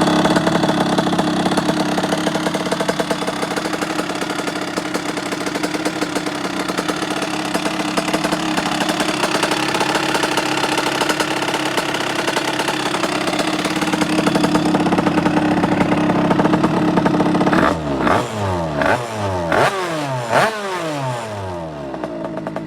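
Derbi Senda two-stroke engine with an 88cc Italkit cylinder kit held at high revs in a steady, buzzing note. About three quarters of the way in, the revs drop and pick up again several times in quick succession, then settle lower near the end.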